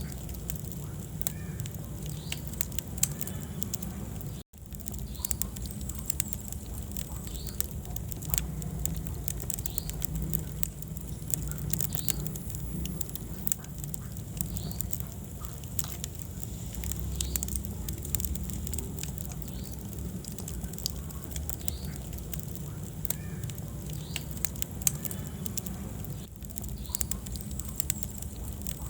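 Wood fire in a fireplace crackling, with many sharp pops and snaps over a steady low rumble of the flames. The sound cuts out for a split second about four and a half seconds in.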